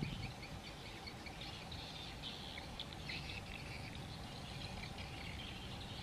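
Birds chirping faintly, many short calls, busiest in the middle, over a steady low background rumble.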